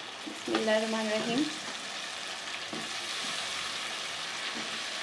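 Steady sizzle of frying spice paste in a pan as diced potatoes, still wet from their soaking water, are tipped in; the sizzle grows a little louder about two seconds in and then holds.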